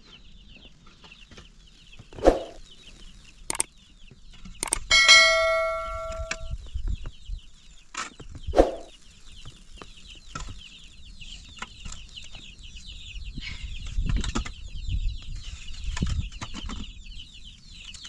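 Chickens clucking over a steady chorus of rapid high-pitched chick peeping, with a couple of louder single calls. About five seconds in, something metal clangs and rings for about a second and a half.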